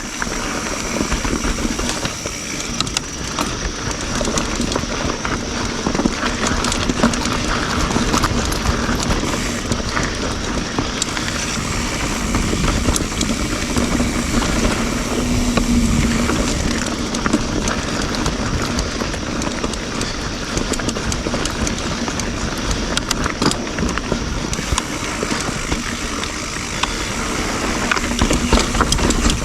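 YT Jeffsy mountain bike ridden along dirt singletrack: a steady rush of tyre and wind noise with constant small clicks and rattles from the bike over the rough trail.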